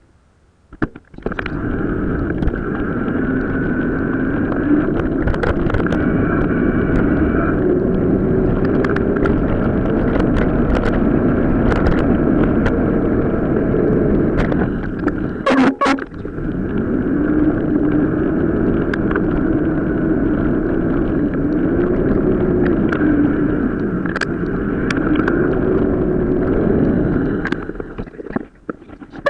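Sped-up riding audio of a mountain bike on an off-road track: wind buffeting the microphone and tyres rumbling, with a wavering drone and frequent short knocks and rattles from bumps. It cuts out briefly about halfway through and falls away near the end.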